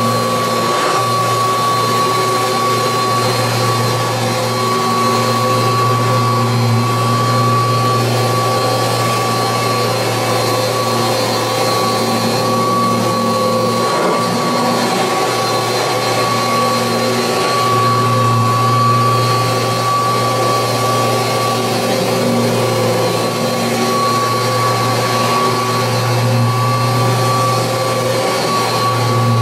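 1986 Kirby Heritage II upright vacuum cleaner running continuously with a steady motor whine, its low hum swelling and easing a little as it works over the floor.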